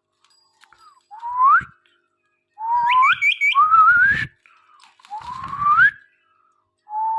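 Parrot whistling a series of about five upward-sliding whistles, one of them breaking into a quick run of short repeated notes, with faint low thumps beneath.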